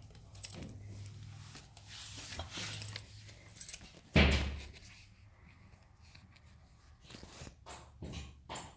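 Crows cawing: one loud call about four seconds in, then a few shorter calls near the end.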